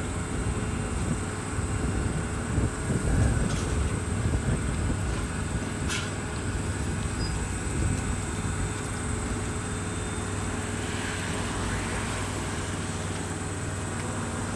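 Outdoor background rumble with a steady low mechanical hum and a faint high whine, gusting unevenly over the microphone in the first half and settling later. There is one sharp click about six seconds in.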